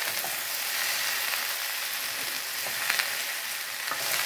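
Chopped okra (bhindi) sizzling as it fries in hot oil in a metal kadai while being stirred with a perforated metal spatula. There are a couple of sharp clicks of the spatula against the pan about three and four seconds in.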